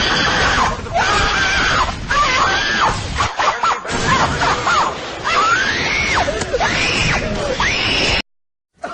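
Meme sound-effect clip of high, wailing screams rising and falling in pitch over loud, noisy music; it cuts off suddenly about eight seconds in.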